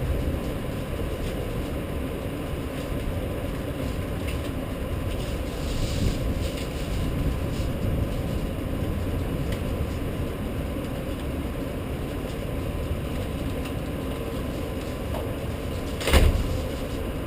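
Steady low rumbling noise, with one sharp knock near the end.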